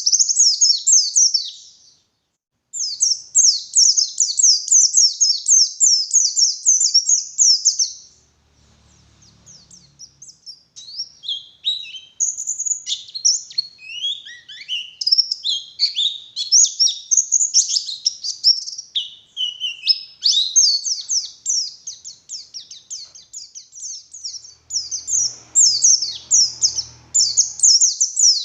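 White-eye (pleci) singing a long, fast, high-pitched chattering song of rapid twittering notes. It breaks off briefly about two seconds in and goes quiet for a few seconds in the middle, then comes back with sliding, falling notes before the quick chatter resumes.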